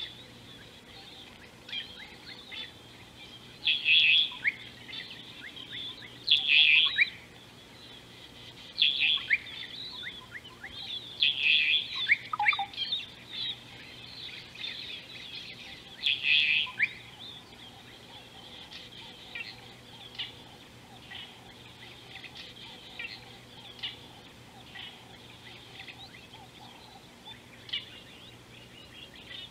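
Wild birds chirping and calling in quick high notes: several loud bursts in the first half, then softer scattered chirps.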